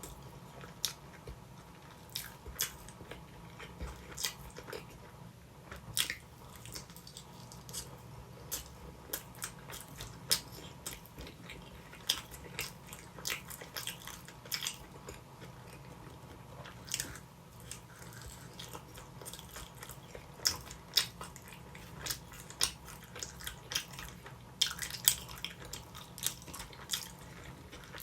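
Close-miked chewing and biting of pizza: irregular wet mouth clicks, smacks and soft crunches, several a second.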